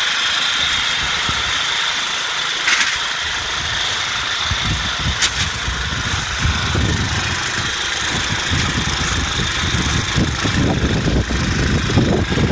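Small engine of a Mitsubishi MyBoy MMR65 walk-behind cultivator running steadily, with a couple of sharp clicks in the first half.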